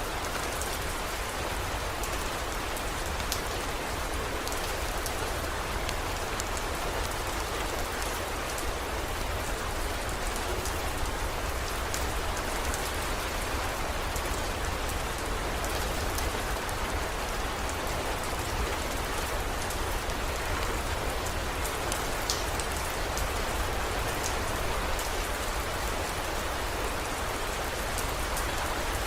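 Steady heavy rain pouring, an even hiss with scattered sharp ticks and a constant low rumble underneath.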